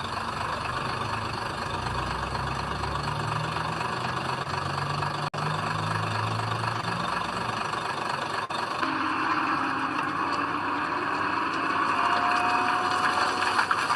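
Heavy diesel engine of earthmoving machinery running steadily, cut by two brief dropouts; in the second half the sound changes to a higher steady whine over the engine.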